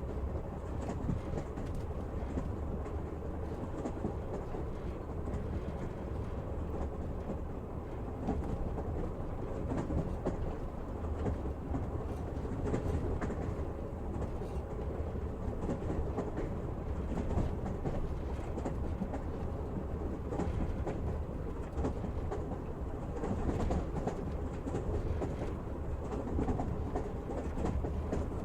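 Passenger train running: a steady low rumble from the carriage, with faint scattered clicks of the wheels on the track.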